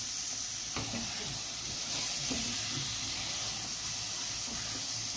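Amla pieces with spices and jaggery sizzling in a non-stick kadhai on low heat while being stirred continuously with a silicone spatula. The sizzle is a steady hiss, with a few soft scraping strokes. The jaggery is melting.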